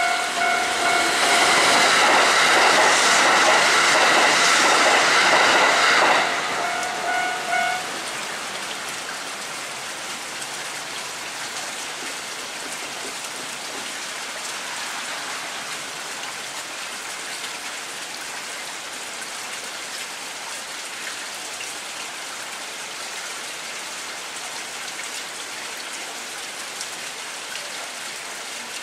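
Kintetsu Hinotori limited express electric train passing at speed in heavy rain, loudest for the first six seconds and then fading away. A steady high tone sounds along with it and stops about eight seconds in. After that only steady rain is heard.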